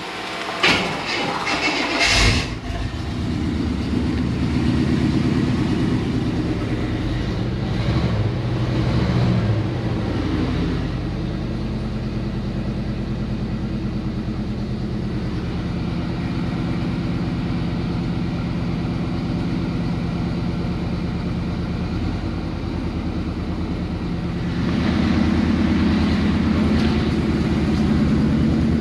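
A late-1990s GMC Sierra 2500 pickup's engine starting about two seconds in after a few sharp knocks, then running: it revs up, settles to a steady idle, and picks up again near the end.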